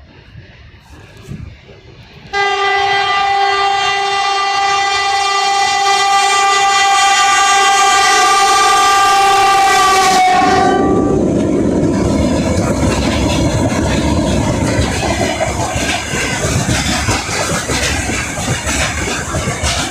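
VL80S electric locomotive sounding its horn in one long steady blast of about eight seconds, starting a couple of seconds in and dropping slightly in pitch as it stops, then the rumble and wheel clatter of the locomotive and its freight train going past.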